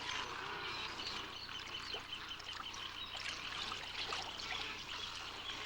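A dense chorus of many birds calling and chirping at once, with rapid trills of quickly repeated notes, over a steady background hiss.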